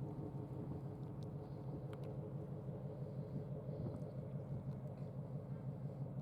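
Steady low engine drone of a general cargo ship under way, heard across the water.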